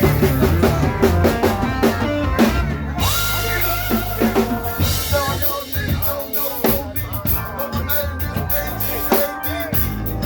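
Live band music with the drum kit out front: kick drum, snare and rimshots keeping a steady beat over bass and other pitched instruments.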